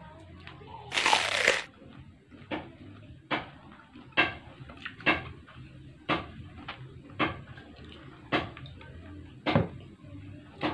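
Close-up mukbang eating sounds: chewing with short wet smacks and clicks of the mouth, about one a second, and a louder noisy burst lasting about half a second about a second in.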